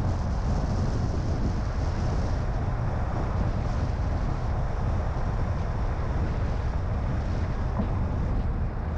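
Steady low rumble of a moving car: tyre, road and engine noise mixed with wind noise, even and unbroken with no distinct events.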